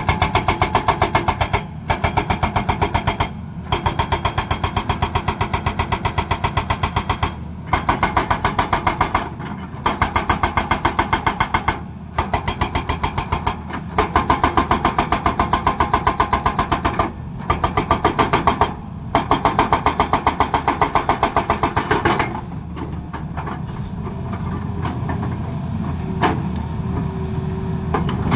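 Hydraulic breaker on a Tata Hitachi excavator hammering in rapid blows, in bursts of one to three seconds with short pauses, over the excavator's engine. The hammering stops about 22 seconds in, leaving the engine running.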